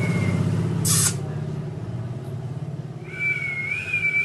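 A pet parrot vocalising: a low, rapidly pulsing rattle throughout, a short harsh squawk about a second in, and a steady whistle in the last second or so.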